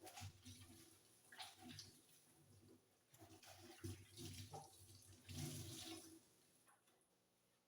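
Faint, irregular wet scrubbing and splashing of water as a kitchen window is washed by hand, with a longer, busier stretch of strokes from about three seconds in that dies away near the end.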